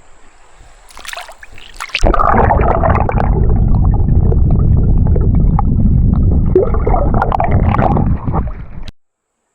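Loud, dense gurgling rumble of water right on the microphone, as if in or under the creek's flow. It starts suddenly about two seconds in after a few knocks and cuts off abruptly near the end.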